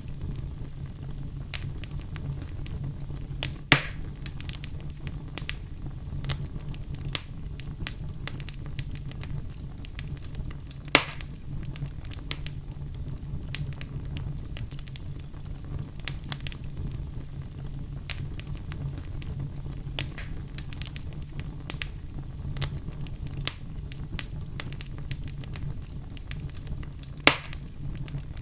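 Wood fire crackling in a fireplace: frequent small snaps over a steady low rumble, with three louder sharp pops, near the start, about eleven seconds in and near the end.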